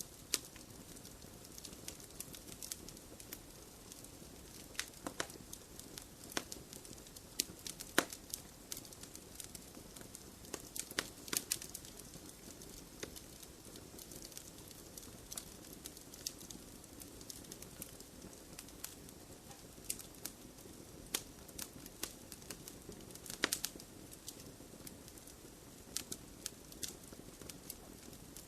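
Wood fire burning in a fireplace: a steady low hiss with irregular sharp crackles and pops from the burning logs, a few louder snaps among them.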